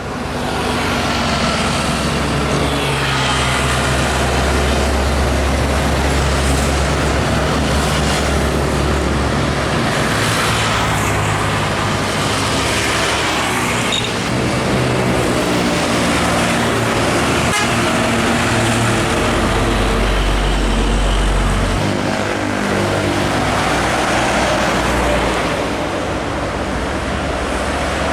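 Heavy diesel trucks driving past on a highway, engines drumming over tyre and road noise, with a vehicle horn tooting a few seconds in and again near the end.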